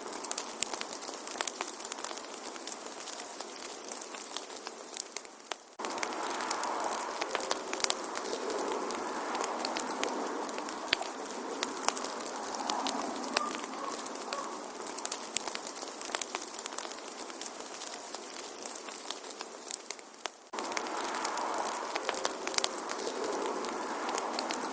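Wood fire crackling, with frequent sharp pops and snaps over a soft steady hiss. Twice, about 6 and 20 seconds in, the sound falls away briefly and then starts again abruptly.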